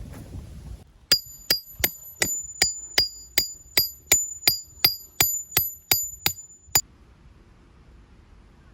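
A steel tent peg being driven in with a hammer: about sixteen sharp, evenly paced metal-on-metal blows, nearly three a second, each ringing with the same high tone. The blows stop a couple of seconds before the end.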